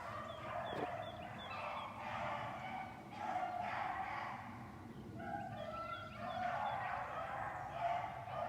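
A pack of rabbit dogs baying on a rabbit's trail. Several voices give long, drawn-out bawls that overlap, with brief lulls between bursts.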